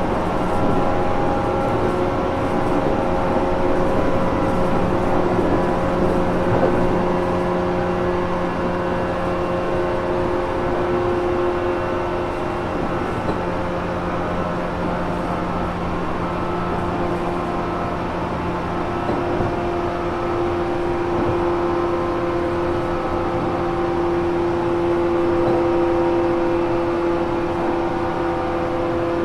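Running noise heard inside a JR Kyushu 415 series 1500 subseries electric multiple unit motor car: a steady rumble of the wheels on the rails with several steady whining tones from the traction motors and gearing. The car is one the recordist labels as having an abnormal noise (異音車).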